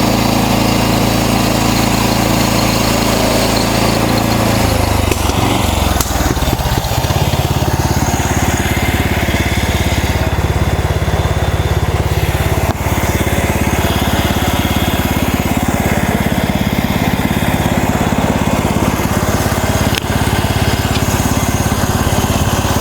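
Gasoline engine of a MechMaxx SM32 bandsaw sawmill running steadily. About five seconds in its note changes, and it then runs on at a new steady speed.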